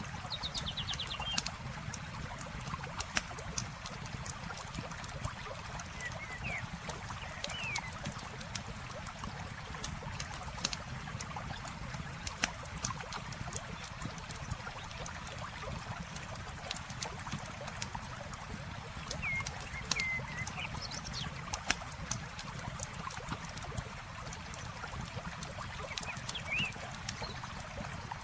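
Campfire crackling with frequent irregular pops over a steady wash of flowing water, with a few brief bird chirps now and then.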